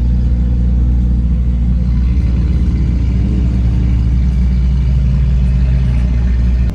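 BMW M4's twin-turbo inline-six engine and exhaust running with a steady low rumble while driving. The sound drops away abruptly near the end.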